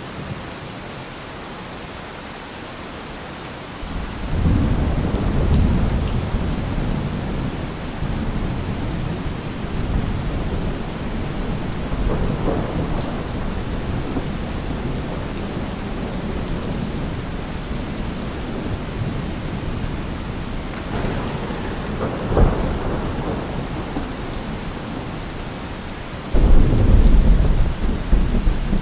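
Steady rain with rolling thunder: a deep rumble builds about four seconds in and rolls on, a sharp thunder crack comes about two-thirds of the way through, and another loud peal of thunder breaks near the end.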